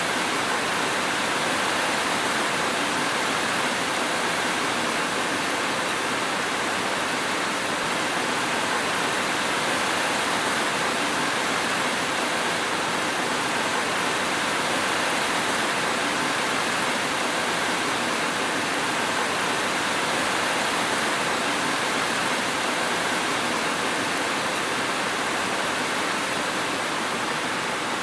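Steady, dense rain: an even hiss with no single drops or thunder standing out.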